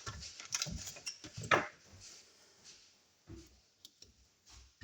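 A few scattered light knocks and clicks, the loudest about one and a half seconds in.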